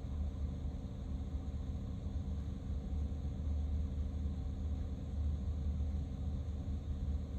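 Steady low rumble of a car on the move, road and engine noise with a faint steady hum over it.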